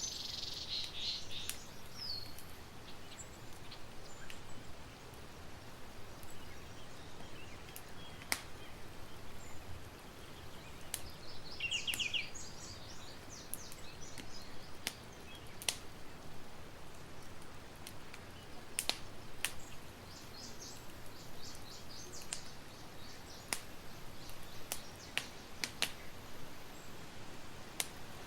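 Campfire crackling, with scattered sharp pops over a steady hiss. Small birds chirp now and then: at the start, around the middle, and again later on.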